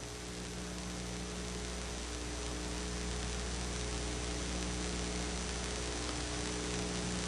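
Steady electrical mains hum with a layer of hiss, the background noise of the narration recording.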